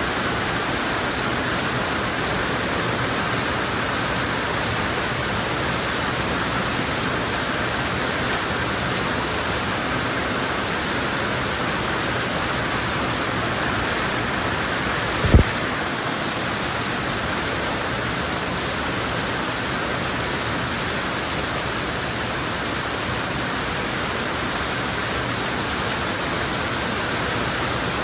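Heavy rain falling steadily, an even hiss, with a single brief thump about halfway through.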